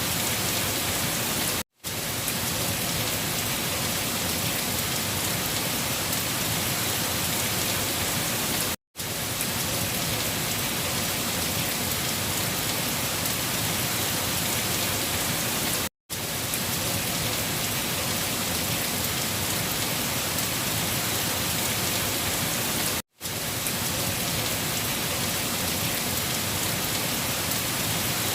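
Steady rain: an even hiss of falling rain and drops on a surface. It cuts out to silence for a split second four times, about every seven seconds.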